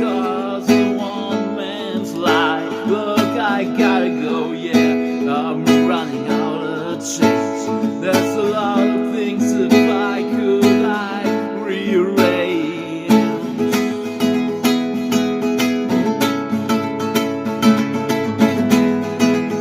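Acoustic guitar strummed steadily, with a man's singing voice wavering over it for roughly the first two-thirds; after about thirteen seconds the guitar strumming goes on alone.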